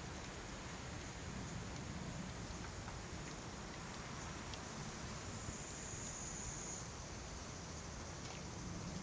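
Insects calling in one steady, high-pitched continuous tone, with a few faint clicks over a low hiss.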